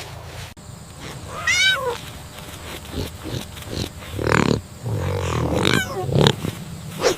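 Animal calls: one short call falling in pitch, then several rough, harsh calls.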